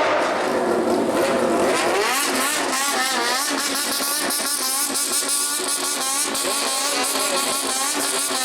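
Several bosozoku motorcycles revving their engines over and over, the pitch of the engines rising and falling in quick, overlapping waves. The revving is done on purpose to make as much noise as possible.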